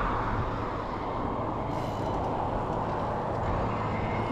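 Steady rush of wind and road noise from a moving e-bike.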